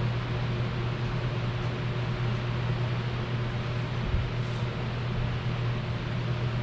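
A steady low mechanical hum over an even hiss, with a brief low knock about four seconds in.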